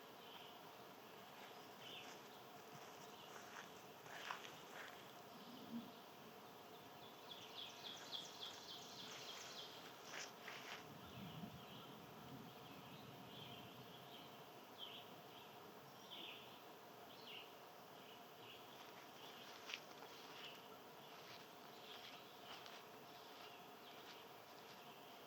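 Faint backyard ambience: scattered short bird chirps and one quick trill of repeated notes, over a steady low hum.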